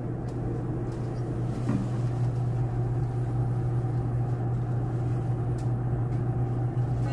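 Steady low hum and rumble of a Meitetsu commuter train, heard inside the carriage, with a faint knock about two seconds in.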